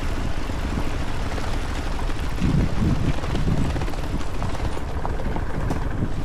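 A motorcycle on the move: a steady low rumble of engine and wind rush on the microphone, swelling briefly about two and a half seconds in.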